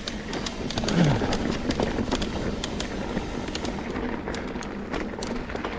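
Trek Slash 9.8 mountain bike rolling along a dirt trail: a steady rush of tyre and wind noise, with many sharp clicks and rattles from the bike. The high hiss eases off about four seconds in.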